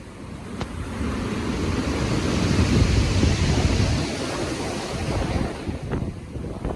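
Stormy ocean waves surging and breaking, one swell building up over the first few seconds and easing off, with gusty wind.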